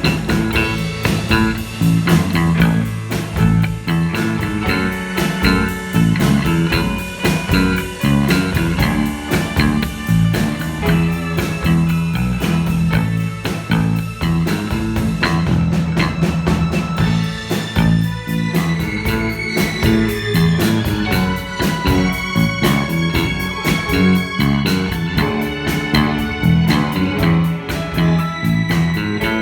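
A rock band playing with a steady beat: electric guitar over bass and drum kit.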